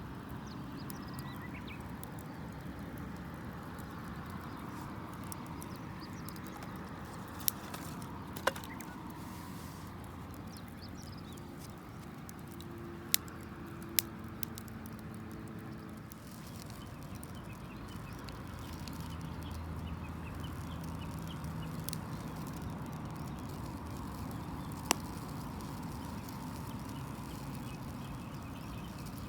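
Wood fire burning with a steady low rush, broken by a handful of sharp pops and cracks from the burning wood.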